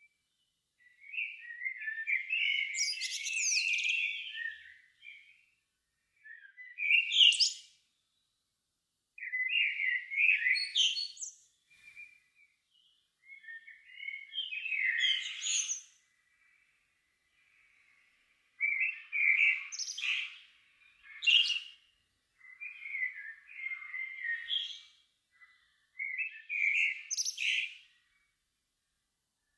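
Songbird singing at dusk: about seven varied, high, warbling phrases, each a second to a few seconds long, separated by short pauses, with a very quiet background between phrases.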